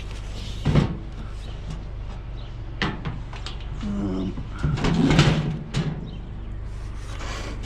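Knocks and rattles of junk being handled and moved, with a short squeak about four seconds in and a louder bout of clattering just after, over a steady low rumble.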